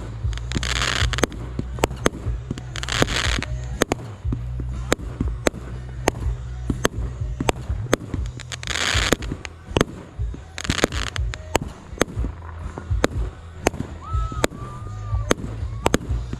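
Fireworks going off: a steady run of sharp bangs and pops, often two or three a second, with four short hissing bursts of crackle and a low rumble underneath.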